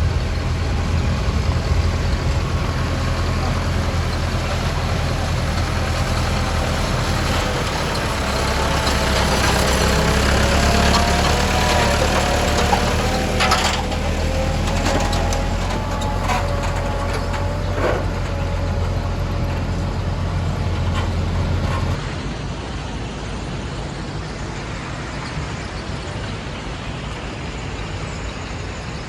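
Heavy diesel machinery running with a steady low drone, a wavering whine rising over it partway through and several sharp metallic knocks. About three-quarters of the way in the sound turns suddenly quieter, with the drone going on.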